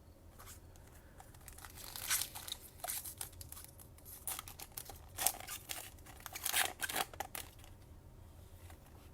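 Foil trading card pack wrapper being torn open and crinkled by hand, with irregular crackling strokes over several seconds.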